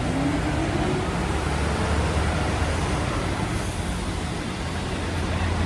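Steady city street traffic noise: engine rumble and road hiss, with one vehicle's engine note rising in pitch in the first second.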